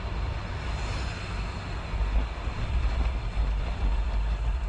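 Motorcycle riding at speed, heard through a rider-mounted camera: a steady low rumble of wind and road noise with no clear engine note.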